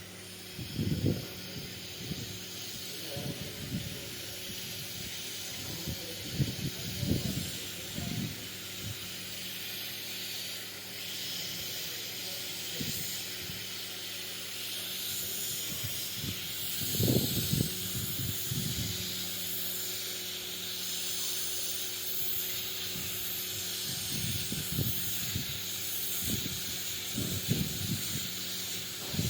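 Steady airy hiss, with scattered low knocks and handling sounds, the strongest about seventeen seconds in.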